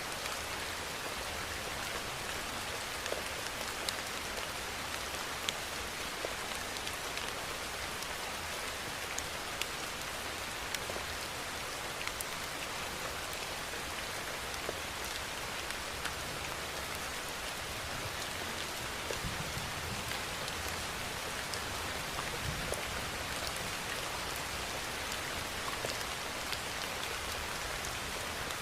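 Steady rainfall hitting a surface, a constant hiss with many sharp individual drop taps scattered through it.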